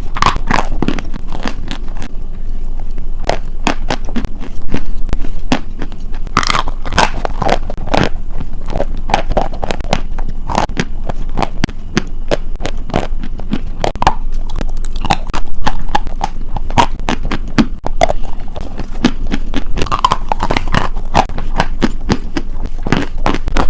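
Close-miked crunchy food being bitten and chewed, a dense run of sharp, irregular crackles with a few louder bites.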